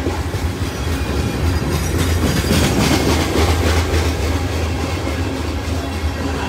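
Freight train of covered grain hopper cars rolling past at close range: a steady low rumble of steel wheels on rail, with wheels clicking over the rail joints. The clatter is loudest and busiest a couple of seconds in.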